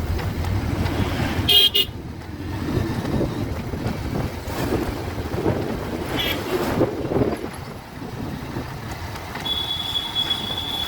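Road and traffic noise heard from a moving Bajaj Pulsar 150 motorcycle, with a steady low rumble. A vehicle horn toots briefly about a second and a half in and again about six seconds in, and a thin high steady tone sounds near the end.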